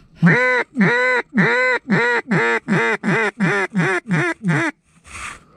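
Mallard duck call blown in a descending greeting call: about eleven loud, nasal hen-mallard quacks, the first ones drawn out and the rest coming shorter and quicker, used to coax wary ducks in to the decoys.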